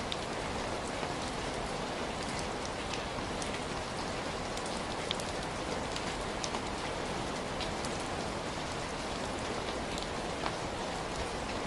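Steady heavy rain, a dense even hiss with scattered sharper drop ticks.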